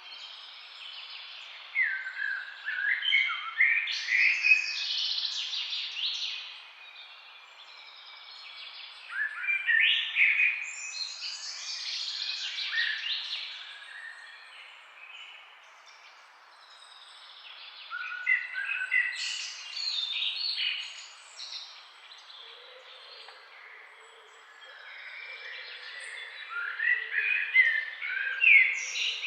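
Songbirds singing in four spells of quick chirps and trills, each a few seconds long, over a steady faint hiss.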